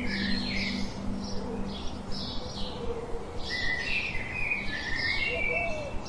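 Songbirds chirping in quick runs of short high notes, in two spells with a gap around the middle, over faint sustained low notes.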